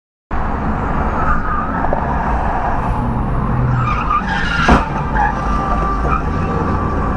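Steady car road and engine noise picked up by a dashcam, with one sharp bang a little past the middle.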